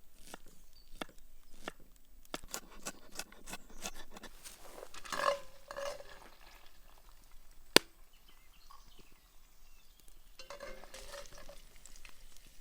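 A utensil stirring and scraping in a pan, with ringing metal clinks about five seconds in and again near the end, and one sharp knock a little before eight seconds.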